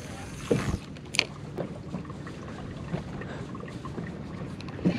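Water lapping against the hull of a small boat drifting on a shallow flat, with a few light knocks.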